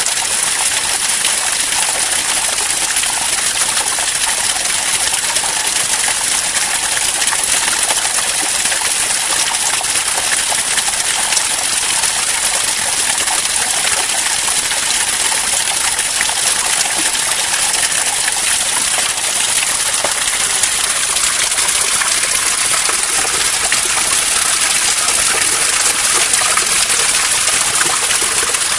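Steady rain falling: a dense, even hiss of many drops.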